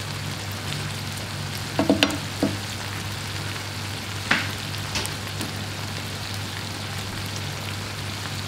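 Tiger prawns sizzling steadily in a pan of garlicky oil-and-herb sauce, with a steady low hum underneath. A spoon knocks and scrapes against the pan in a quick cluster about two seconds in, and there are single sharp clicks about four and five seconds in.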